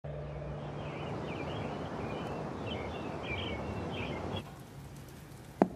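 Birds chirping over a steady outdoor background, which drops to a quieter room tone a little over four seconds in. A single sharp knock comes near the end and is the loudest sound.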